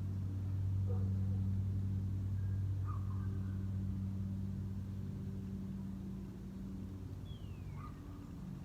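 A low, steady engine hum, a motor running somewhere near the feeder, swells about a second in and then slowly eases. A bird gives a short falling whistle near the end, with a couple of faint chirps earlier.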